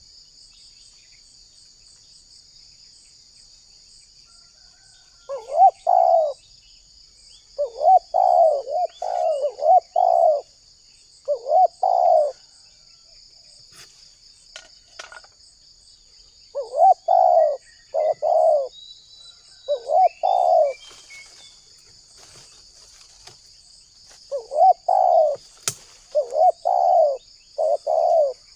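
Spotted dove (tekukur) cooing in short phrases of two to five notes, with pauses of a few seconds between phrases. A steady high-pitched insect trill runs underneath.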